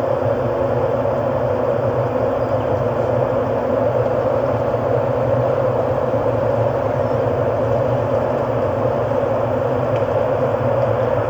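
Steady ambient drone: a dense, even rumbling texture with no beat, melody or sudden sounds.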